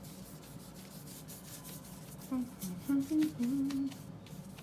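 A paintbrush rubbing and scratching softly as black gesso is spread over paper, with a woman humming a few low notes over it about two seconds in.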